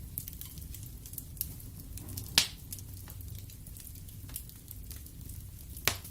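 Wood fire burning in a fireplace: a steady low rumble of the flames with scattered sharp crackles and pops of the burning logs, the loudest pop about two and a half seconds in and another near the end.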